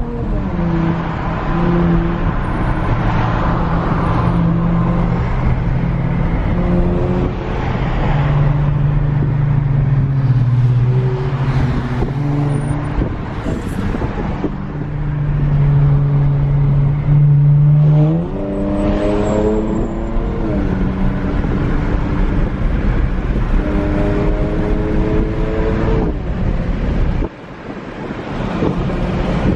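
Car engine running while driving, holding a steady pitch for stretches and then revving up as it accelerates, twice in the second half.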